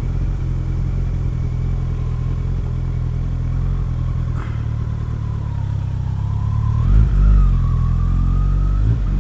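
Kawasaki ZX-14's inline-four engine running steadily at low street speed, picked up by a helmet-mounted camera microphone. About seven seconds in, the engine note briefly swells louder.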